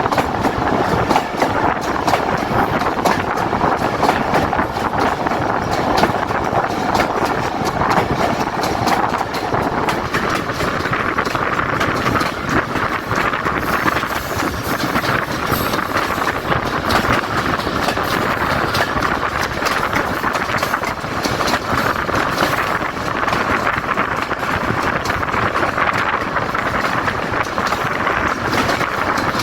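Passenger train running along the track: steady rumble and rattle of wheels and coach, with many quick clicks from the rails. The noise shifts higher in pitch about ten seconds in.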